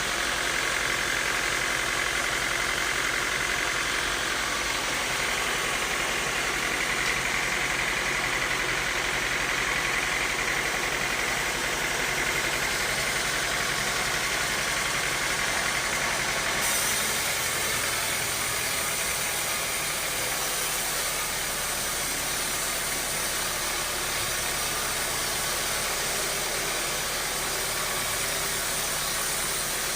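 Sawmill machinery running steadily, a continuous mechanical hum and whir. Its tone shifts abruptly a little past halfway.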